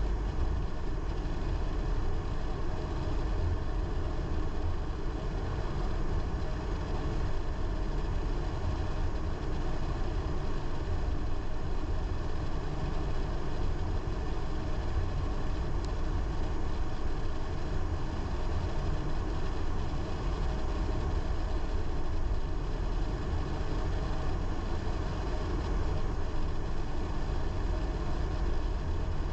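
Car being driven at a steady pace: continuous low engine and road rumble with no changes in speed.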